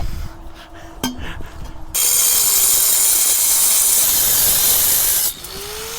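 Handheld power cutting tool cutting through the steel muffler pipe: a few light metal clicks, then a loud steady grinding hiss starting about two seconds in and stopping a little after five seconds, when the motor's whine rises again as the blade comes free.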